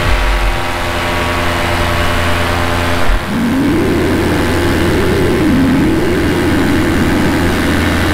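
Minari F1 two-stroke paramotor engine running steadily in flight, a constant multi-tone drone; from about three seconds in a lower hum wavers up and down beneath it.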